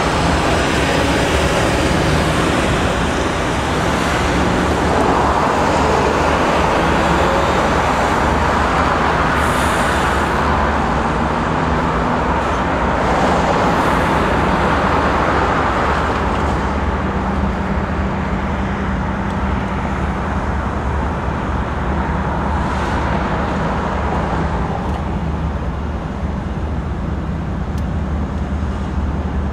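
Canadian Pacific GE diesel-electric freight locomotives running under power past at close range: a steady engine drone with a slight change in pitch about halfway through, over the rumble of steel wheels rolling on the rails.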